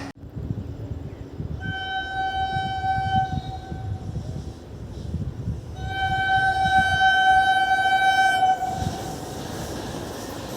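Locomotive horn sounding two long blasts, about two and three seconds long, each held on one steady pitch, over the low rumble of a slow-moving train.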